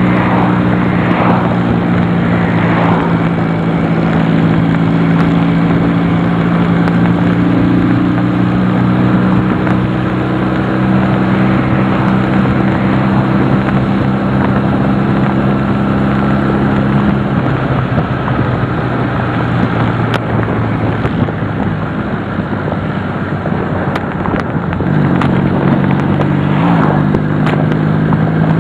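Honda CD175 motorcycle's twin-cylinder engine running steadily under way, with wind and road noise rushing over the microphone. About seventeen seconds in the engine note drops away, leaving mostly wind, and it comes back, rising a little, near the end.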